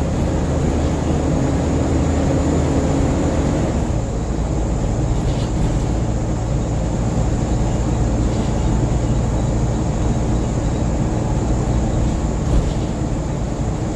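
Scania N94UB single-deck bus heard from inside the saloon while under way: the engine runs steadily under road noise. Its note changes about four seconds in, and there is a single short knock near the end.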